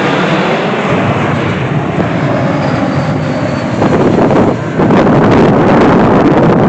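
Airplane flying past with a steady rushing engine noise. From about four seconds in, wind buffets the microphone and the sound turns louder and rougher.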